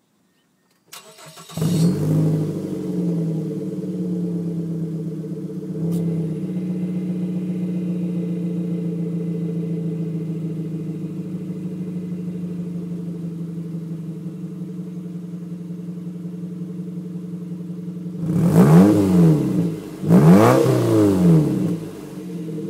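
2008 Mazda 3's 2.0-litre four-cylinder engine cranking and starting about a second in, then idling steadily through a Thrush Turbo muffler with the resonator deleted. Near the end it is revved twice, each rev rising and falling, before it settles back to idle.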